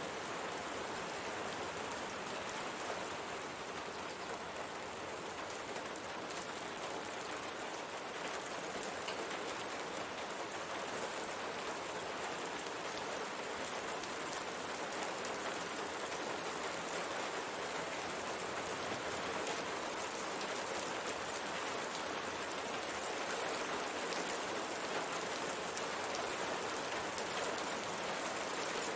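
Steady rain falling on a window pane, a dense even hiss of rain with many small drop ticks against the glass.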